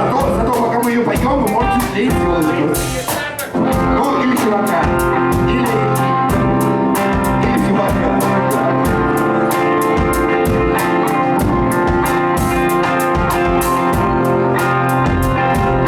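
Rock band playing live: electric guitar and drum kit, with a short break about three seconds in before the full band comes back in.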